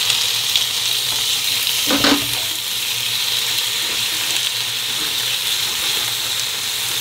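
Oysters frying in a pan, a steady loud sizzle, with one brief short sound about two seconds in.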